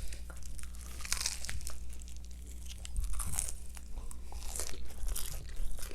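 Close-up eating sounds of crispy fried chicken: crunchy bites into the breaded skin followed by chewing, in several separate bursts of crackle.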